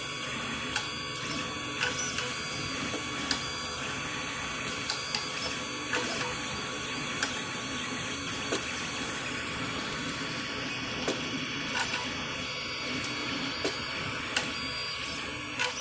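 3D printers running (a Prusa i3 MK3 and a Tevo Tornado): a steady fan hiss with several thin, steady motor tones, and sharp clicks at irregular intervals, roughly once a second.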